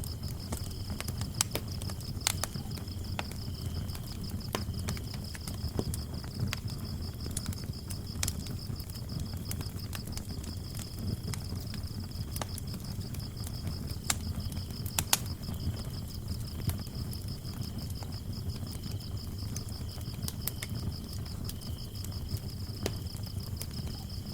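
Wood fire burning with a low rumble and scattered sharp crackles and pops, under crickets chirping steadily in a high, fast trill, with a second, lower cricket joining on and off.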